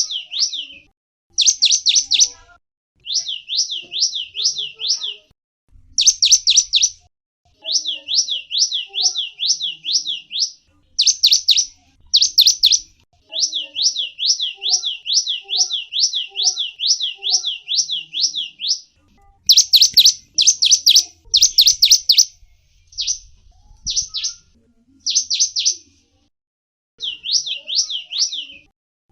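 Gelatik wingko, a small songbird, chirping in quick series of high, sweeping notes, several a second. Each series lasts one to two seconds, with short pauses between.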